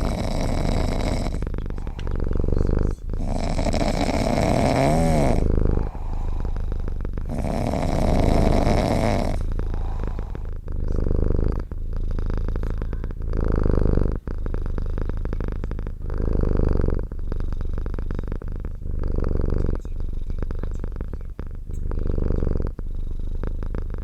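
Domestic cat purring close up, in a steady rhythm of breaths in and out about every second and a half. A louder, brighter sound comes in three stretches during the first ten seconds.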